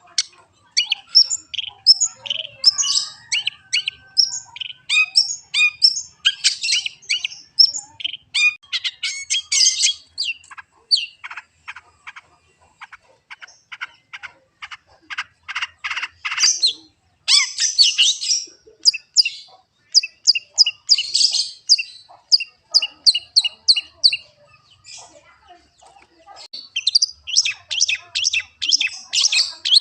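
Long-tailed shrike (cendet) singing: a fast, varied chatter of sharp high chirps and rapid trills, coming in bursts with short lulls.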